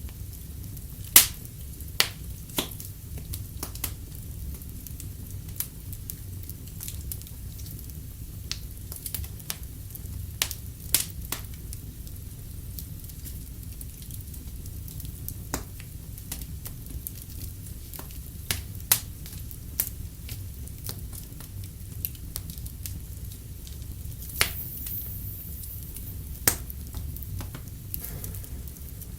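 Wood fire crackling in a fireplace: a steady low rumble with irregular sharp pops and snaps, the loudest about a second in.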